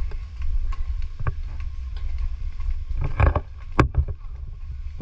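Wind buffeting the microphone as a steady low rumble, with a few sharp knocks and clicks, the loudest about three to four seconds in.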